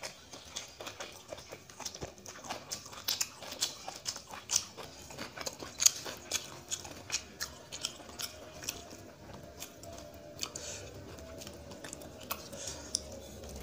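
A person chewing mouthfuls of hand-mixed rice and beet fry, with many short, sharp mouth clicks and smacks, while his fingers mix rice on a metal plate. The clicks come thickly at first and thin out near the end.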